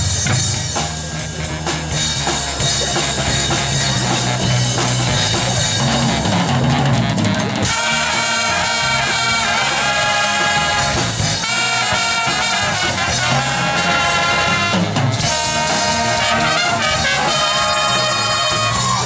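Marching band playing: brass section with trumpets and trombones over drums, the full band entering louder and brighter about eight seconds in.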